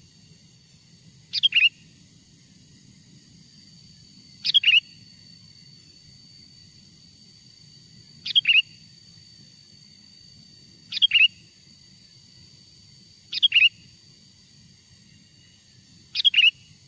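Sooty-headed bulbul calling: six short, bright call phrases a few seconds apart, each a quick falling pair of notes. It is the natural call of a wild bird, the kind used as a lure to bring other bulbuls in.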